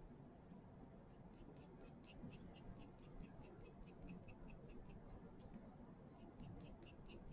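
Faint, quick strokes of a foam brush dabbing paint onto cardboard, about four a second, pausing for a moment midway before starting again.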